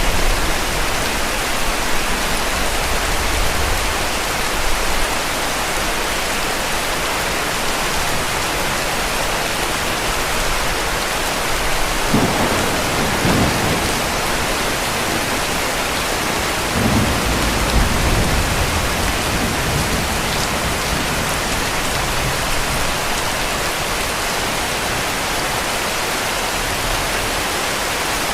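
Heavy rain falling steadily, with distant thunder rumbling low about twelve seconds in and again a few seconds later.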